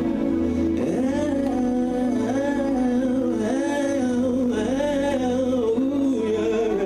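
Slow worship music: steady held chords under a single voice singing a wordless, wavering melody that starts about a second in.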